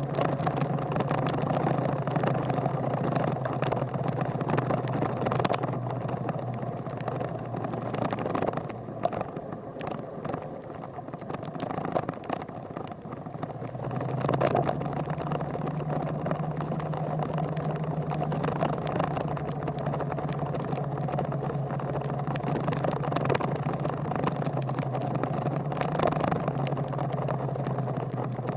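Motorcycle engine running steadily while riding, with road and wind noise. The engine note fades for a few seconds around the middle, then comes back.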